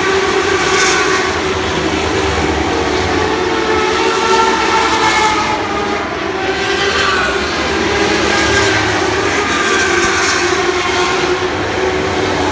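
A pack of motorcycle-engined Lightning Sprint cars racing around a dirt oval, their engines running at high revs. The pitch rises and falls every few seconds as the cars come past and back off for the turns.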